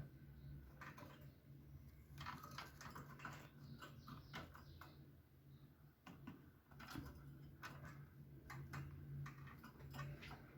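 Faint, irregular light clicks and taps, several a second in clusters, over a low steady hum.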